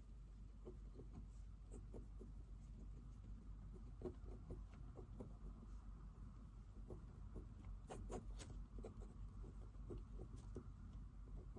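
Pen writing on paper: faint, irregular scratching and small taps, with a few sharper clicks about eight seconds in, over a low steady room hum.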